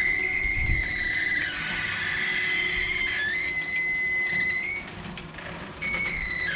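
Electric roller shutter running, giving a steady high-pitched squeal that sets in suddenly, drops away for about a second near five seconds in, then returns. This is the abnormal noise from the shutter that mohair replacement is meant to cure.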